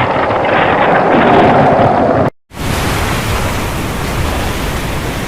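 Rushing storm noise of wind and water, in two steady stretches split by a brief cut to silence a little over two seconds in. The second stretch is brighter and more hissing than the first.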